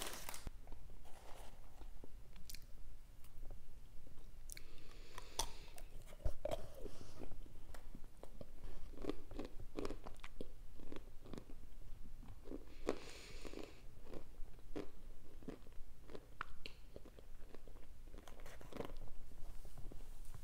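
Close-up crunching and chewing of baked cornstarch chunks, pressure-cooked then oven-baked: irregular brittle cracks and crackles as the chunks are bitten and chewed.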